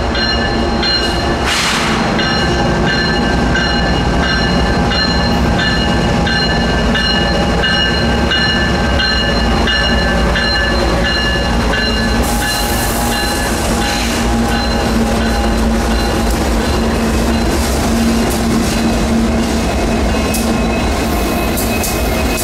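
A freight train of Union Pacific diesel-electric locomotives runs past close by, the engines rumbling steadily, followed by loaded coke hopper cars rolling along the rails. A repeating high ringing tone sounds over the rumble until about two-thirds of the way through.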